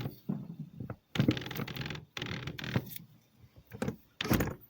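A house window being worked shut by hand: irregular clattering knocks and short scrapes from the sash and latch, with a louder knock near the end.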